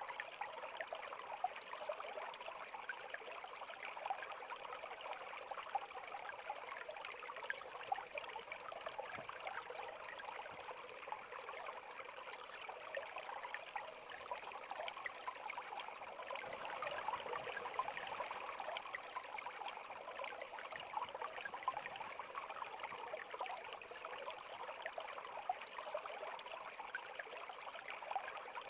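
River water flowing: a steady, even rush with many small quick splashes through it.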